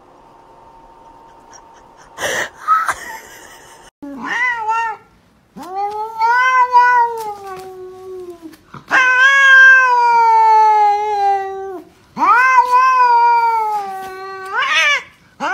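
A domestic cat yowling: a run of about five long, drawn-out meows starting about four seconds in, the first short and wavering, the middle ones about three seconds each and loudest, the last one rising. A brief burst of noise comes about two seconds in.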